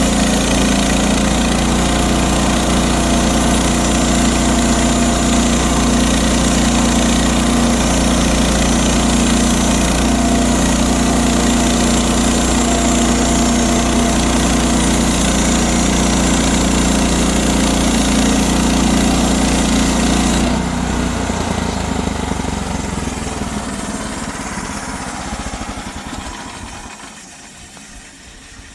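Sawmill engine running steadily, then cut off about two-thirds of the way through, the sound dying away over several seconds as the machine winds down.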